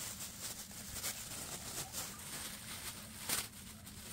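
Faint steady background hiss with a few soft knocks or clicks, the loudest a little after three seconds in.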